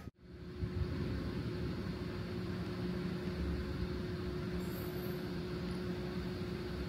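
Steady low rumble and hum of a train at rest or running slowly, with one held humming tone.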